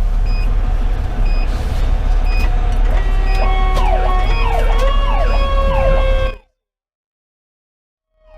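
Fire engine's sirens starting up about three seconds in, rising and falling tones sweeping over a steadier wail, over the diesel engine running and a short beep about once a second. The sound cuts out abruptly to dead silence for about two seconds near the end.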